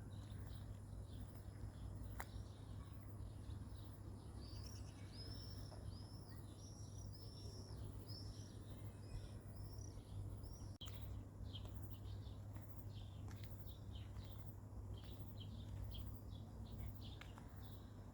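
A small songbird singing, faint: a run of about ten repeated arching whistled notes, then quick short chirps. A steady low hum runs underneath.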